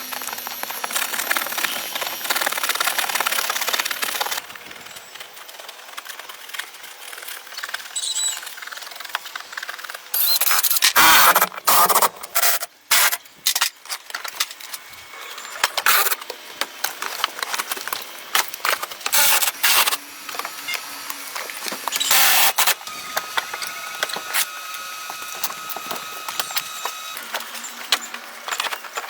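Hand and power tool work: stretches of scraping and rubbing noise, broken by short loud bursts, with a faint steady whine about two-thirds of the way through.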